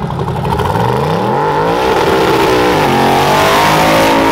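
A vehicle engine accelerating. Its pitch climbs for about two seconds, then drops lower about three seconds in and runs on steadily.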